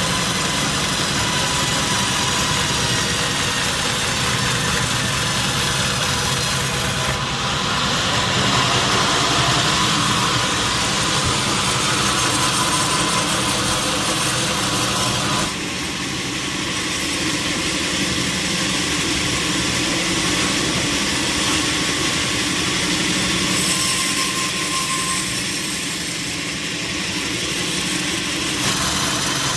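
Sawmill machinery cutting teak logs, running steadily. The tone shifts about a quarter of the way in and drops abruptly about halfway through.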